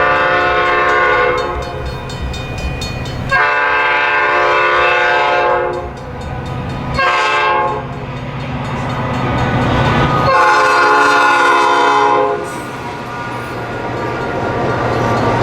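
Metra commuter train locomotive's air horn blowing the long-long-short-long grade-crossing signal, each blast a chord of several tones. Beneath the horn the train's rumble grows louder as it approaches near the end.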